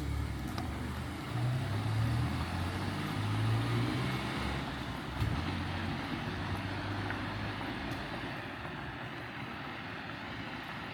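A motor vehicle's engine passing close by on a street, its low hum loudest in the first few seconds and then fading away under steady street noise.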